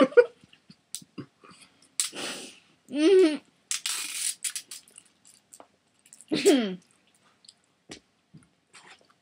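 People chewing chicken nuggets, with small wet mouth clicks, a couple of sharp breathy huffs, and two short wordless vocal sounds, the second one falling in pitch.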